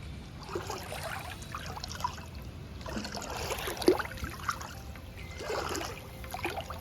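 Water splashing and trickling in a swimming pool, coming in three uneven spells of splashes.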